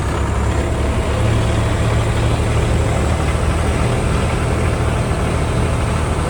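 Tractor engine running at a steady speed: a constant low drone.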